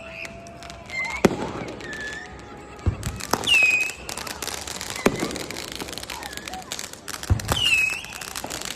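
Consumer fireworks going off: several sharp bangs a second or two apart, with a high whistle that drops in pitch and then holds, heard twice.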